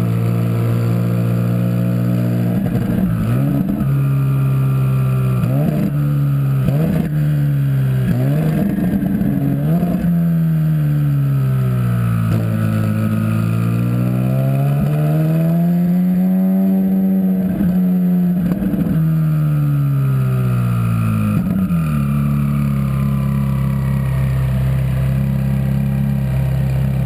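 Twin-turbocharged 4.5-litre V8 of a Hennessey HPE700 Ferrari 458 Spider running at low revs, blipped sharply several times in the first few seconds. The revs then rise and fall slowly, blip once more about three-quarters of the way in, and settle back to steady low revs.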